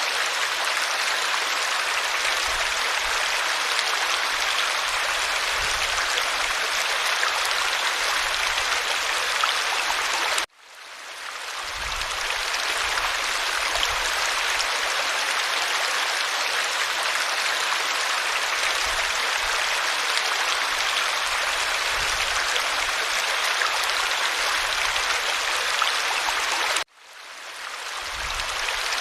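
Creek water flowing in a steady rush. Twice, about ten seconds in and again near the end, it cuts out suddenly and fades back in over about a second.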